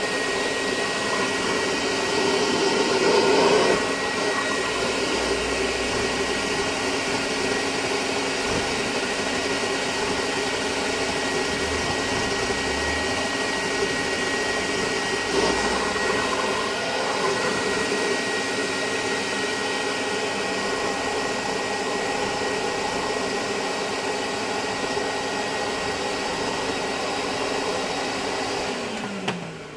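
Vintage Hoover Constellation model 862 vacuum cleaner running steadily with a high whine, briefly louder about three seconds in. Near the end it is switched off and the motor winds down.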